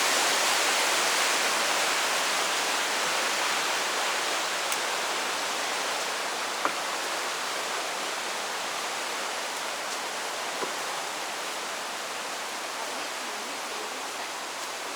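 Steady rush of a waterfall's falling water, slowly growing quieter, with a few faint clicks.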